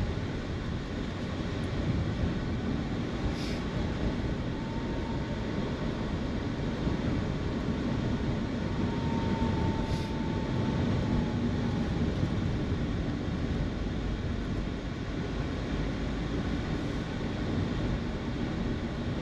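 Steady engine and road noise of a car being driven, a low even rumble with a faint whine that comes and goes in the middle.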